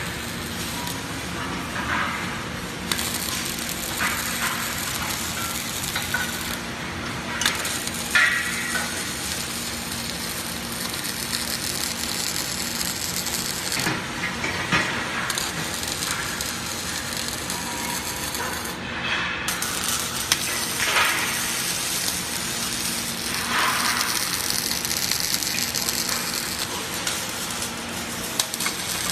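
Robot arm arc welding: the welding arc crackling and sizzling steadily, with a low machine hum beneath and occasional sharper pops. The arc's hiss cuts out briefly a few times, about 3, 7, 14 and 19 seconds in, and restarts.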